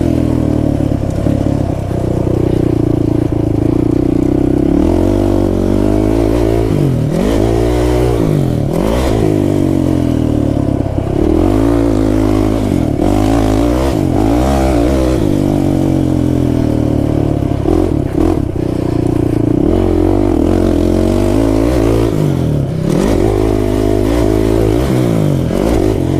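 Kawasaki KFX 450R quad's single-cylinder four-stroke engine revving up and falling back again and again as it is ridden hard around a tight dirt track.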